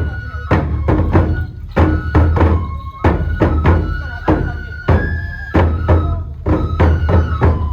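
Traditional kenbai sword-dance music: a taiko drum and small hand cymbals beating a quick, steady rhythm, over a flute holding long high notes.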